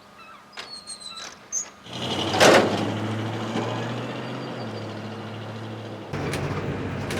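Brief bird-like chirps, then about two seconds in a vehicle engine starts with a loud burst and settles into a steady run, its sound shifting about six seconds in.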